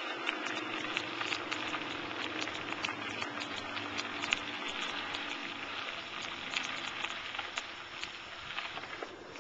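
Bicycle tyres rolling over a crushed-stone trail: a steady crackling hiss dotted with many small ticks and clicks from grit under the wheels.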